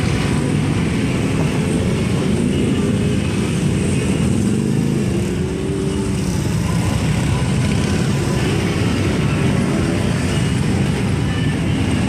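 Many Harley-Davidson V-twin motorcycle engines running together as a parade of bikes rides past, a dense low rumble with engine notes rising and falling.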